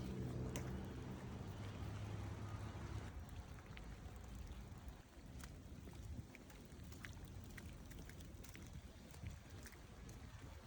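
Rainy city street ambience: steady traffic rumble with a low engine hum for the first three seconds or so, and scattered ticks of raindrops throughout.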